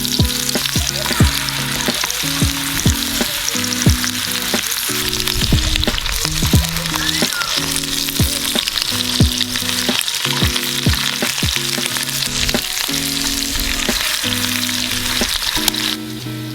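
Thick-cut potato fries deep-frying in hot oil: a steady, dense sizzle that cuts off just before the end, with background music of low held notes and a regular beat.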